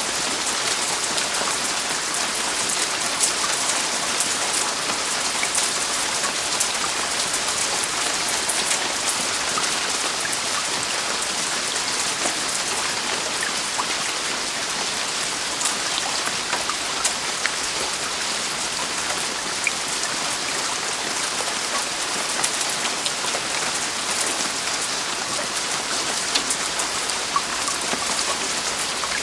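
Heavy rain falling steadily on a roof, an even hiss dotted with the sharp ticks of individual drops striking.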